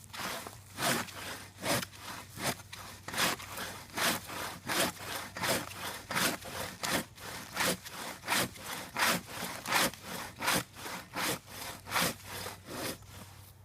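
Hand saw cutting through a tree trunk in steady back-and-forth strokes, a little over one rasping stroke a second.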